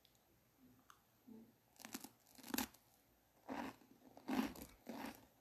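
Someone chewing crunchy food with the mouth, a short crunch roughly every two-thirds of a second from about two seconds in.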